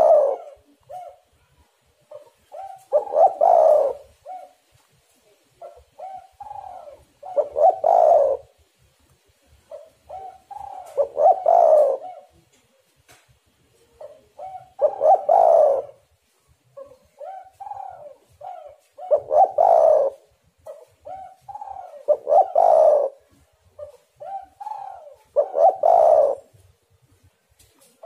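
Spotted dove (tekukur) cooing: short soft coos building into a louder, longer coo, with the phrase repeated about every three to four seconds, some eight times.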